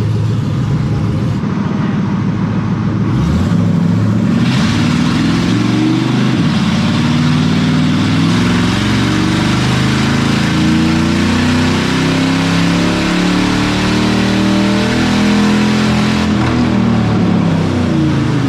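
Ford Crown Victoria's V8 engine, running without catalytic converters or air filter, climbing hard under throttle from about four seconds in as it is run for a full power pull.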